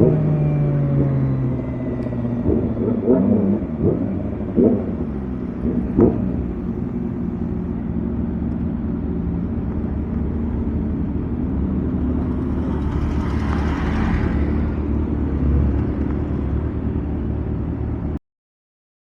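Kawasaki ZX-25R's 250 cc inline-four through a Villain R11 exhaust, its revs falling away near the start, then a steady low running. A rushing noise swells and fades about two-thirds of the way through, and the sound cuts off suddenly shortly before the end.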